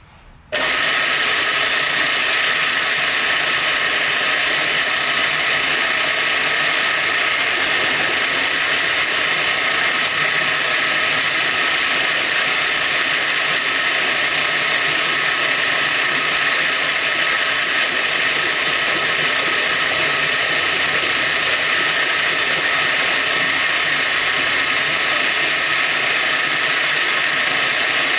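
Milling machine running steadily as it cuts, opening up a hole in the tooling plate. The sound is loud and even throughout, starting and stopping abruptly.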